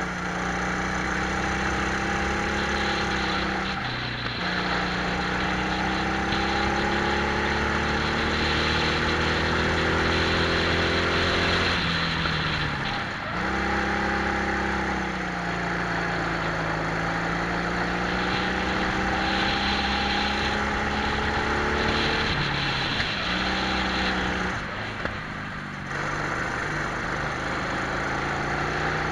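Twin-engine Prokart heard onboard at speed, the engines' pitch climbing steadily along the straights and dropping sharply when the driver lifts off for corners, roughly every nine to ten seconds, with a brief double dip near the end. A steady hiss of wind and tyre noise runs underneath.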